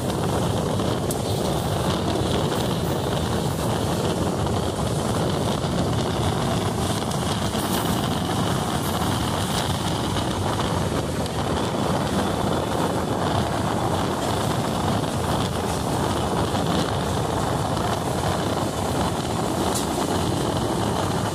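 Passenger train running steadily along the track, a continuous rumble and rush of wheels and air heard from on board.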